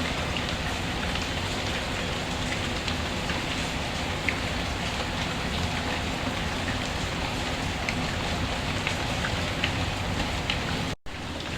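Steady rain falling, with scattered light ticks of drops. The sound cuts out completely for a split second near the end.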